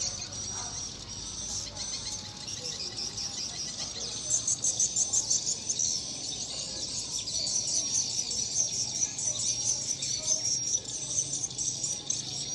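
Swiftlet calls: dense, rapid, high twittering chirps, with a stretch of quick pulsed chirps about four seconds in.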